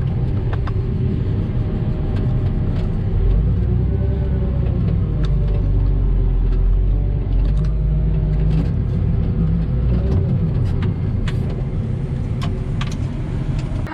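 A vehicle engine running with a steady low rumble that swells in the middle and eases off near the end, with a few faint clicks over it.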